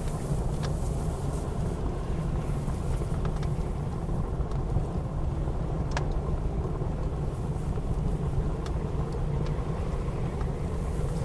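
Steady low blizzard wind, with a few sharp crackles and pops from a wood fire burning in a fireplace, the clearest about six seconds in.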